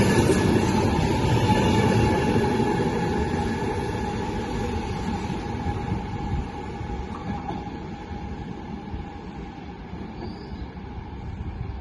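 Electric train moving away along the track, its rumble and a steady whine fading over several seconds.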